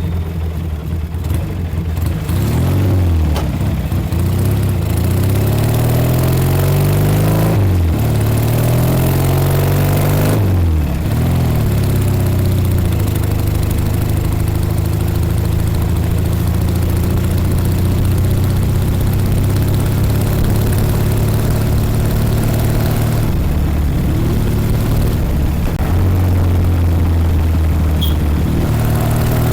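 1956 Norton Dominator 500 parallel-twin engine accelerating through the gears, its pitch rising and then dropping at each upshift, twice in the first ten seconds or so. It then holds a steady cruising note, eases off briefly and picks up again near the end.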